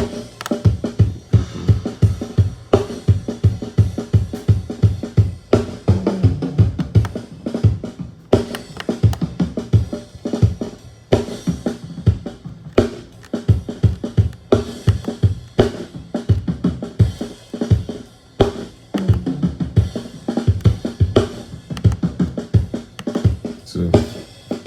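Kick drum and snare channels of a recorded drum kit played back soloed from a multitrack session during EQ work. A steady run of kick drum hits, several a second, with snare strokes between them.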